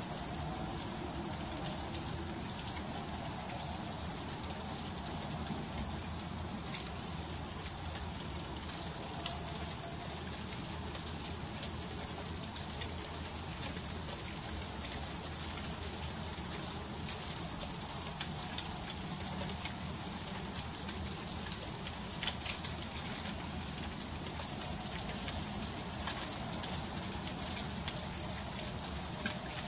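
Freezing rain falling in an ice storm: a steady high hiss with many small ticks of drops striking surfaces, a few of them louder.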